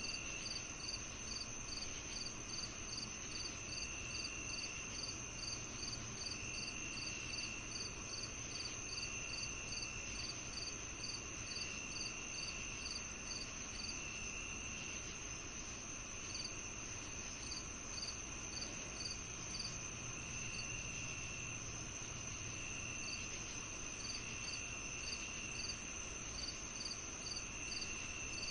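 Summer evening chorus of crickets and other night insects, several at once at different pitches: one holds a steady high trill, another chirps evenly about three times a second, and a lower one trills in spells of about a second with short gaps.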